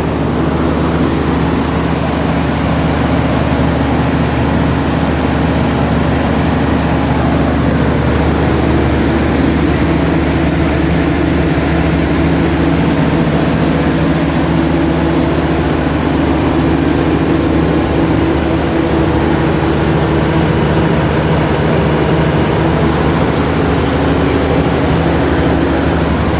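Cummins 400 kVA open-frame diesel generator set running steadily at constant speed, a loud, even engine drone.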